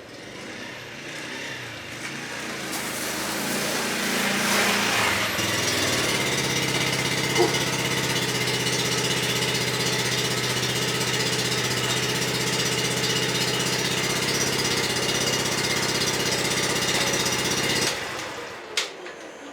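Small 50cc monkey bike engine running, growing louder over the first few seconds and then holding a steady note until it stops suddenly a little before the end.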